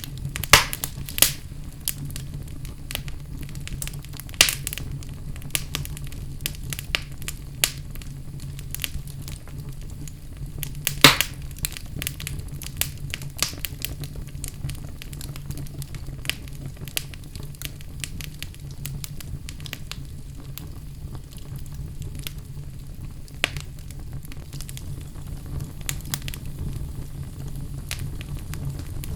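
Fire in a fireplace crackling, with irregular sharp pops over a low steady rumble; the loudest pops come about half a second and a second in, at about four and a half seconds, and about eleven seconds in.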